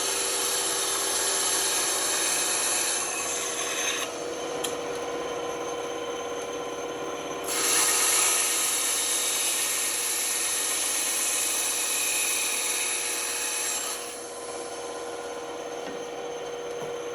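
Band saw running and cutting through wood: a steady motor hum under the hiss of the blade in the cut, which swells and eases as the cut goes, loudest from about halfway through until near the end.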